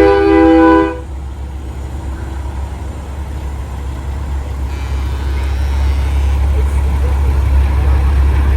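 A semi truck's air horn sounds a chord of several notes together and cuts off about a second in. A steady low rumble of heavy trucks follows.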